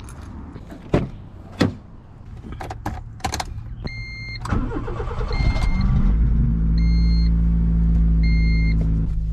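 Two sharp knocks, then a Honda CRX's four-cylinder engine is cranked and catches at about six seconds in, settling into a steady idle. A warning chime beeps about every second and a half from four seconds in.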